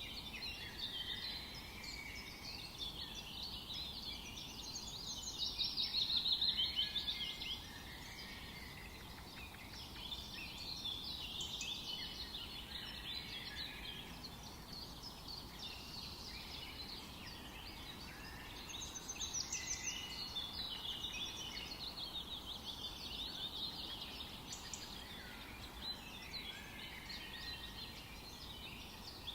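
Several songbirds singing and calling over one another, with a louder rapid trill about five to seven seconds in.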